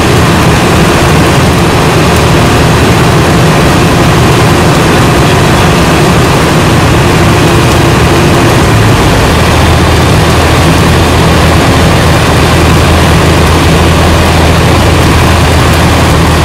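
Comco Ikarus C42 microlight's engine and propeller running steadily, heard loud from inside the cockpit. About nine seconds in, the low drone shifts to a lower, stronger note, a change in engine power.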